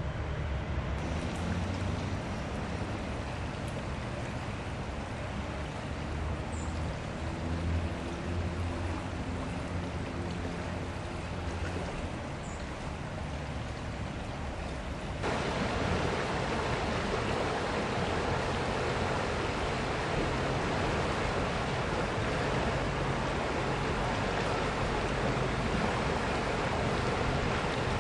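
River water rushing steadily, with a low hum under it in the first half. About halfway through the rushing gets suddenly louder and fuller.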